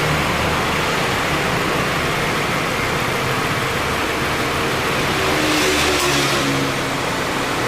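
2016 Subaru XV's 2.0-litre engine idling with the A/C compressor running, heard from in front of the car: a steady engine hum with no abnormal noise from the compressor. About five and a half seconds in, the sound briefly rises in pitch and grows hissier, then settles.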